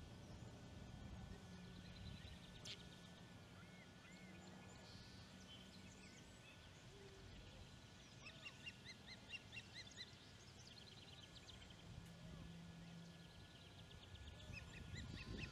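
Faint runs of short, high, repeated chirps, about five a second, from ospreys calling at the nest, over a faint steady hum; the calls come a little over halfway through and again near the end.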